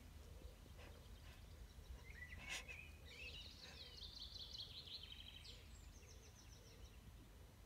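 Faint outdoor background with a songbird singing a rapid trilling phrase of quick repeated high notes for a few seconds in the middle. A single sharp click about two and a half seconds in.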